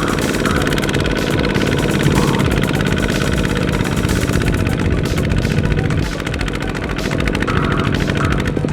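Single-cylinder diesel engine of a two-wheel walking tractor running steadily, with a rapid, even chugging beat.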